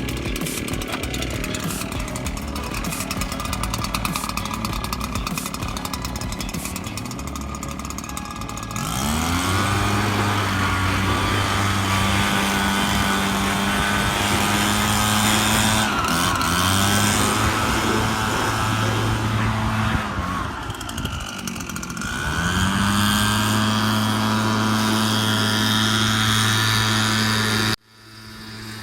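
Two-stroke gas string trimmer revving up and held at full throttle, let off briefly twice and throttled back up each time. It cuts off abruptly near the end.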